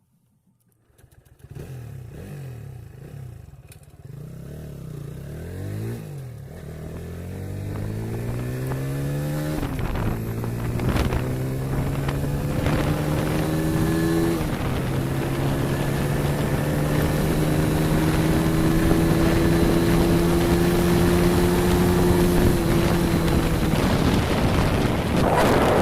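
Motorcycle engine pulling away and accelerating through the gears. Its note rises and then drops at each of three shifts within the first fourteen seconds or so, then settles into a steady cruise as wind rush builds on the microphone.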